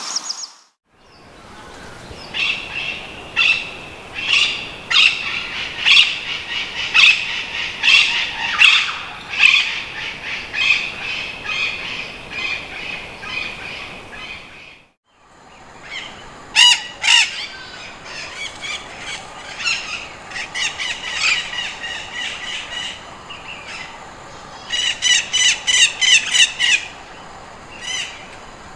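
Slender-billed parakeets calling: a series of repeated calls, roughly one or two a second, in two stretches broken by a brief drop-out near the middle. A quick run of calls, several a second, comes near the end.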